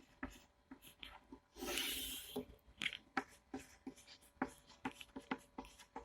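Faint handwriting: a string of short, irregular scratches and taps of a writing tool, with one longer hissing stroke about two seconds in.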